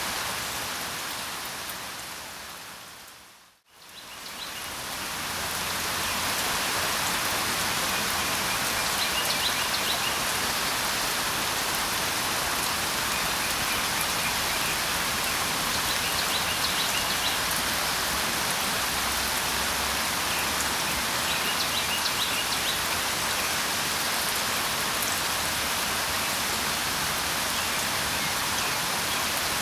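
Steady rain falling, with a few faint bird chirps now and then. About three and a half seconds in, the rain fades out to silence and then fades back in, as at the loop point of a recording.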